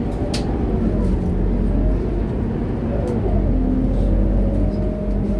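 Scania K230UB bus's diesel engine running with a steady low drone, its pitch shifting about three seconds in, with one sharp click about half a second in.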